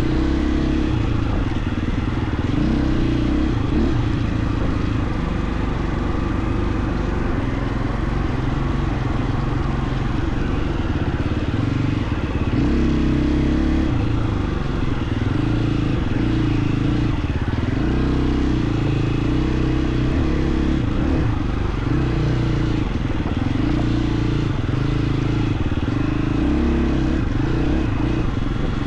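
KTM 350 XC-F's single-cylinder four-stroke dirt-bike engine running while riding, engine speed rising and falling as the throttle is worked.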